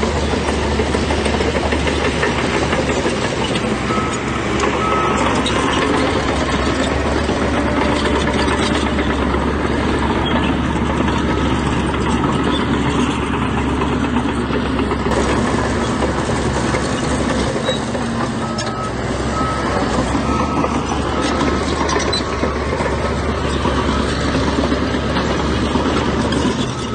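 Heavy construction machinery running steadily under load, with a reversing alarm beeping in short repeated pips, briefly about five seconds in and again through the last third.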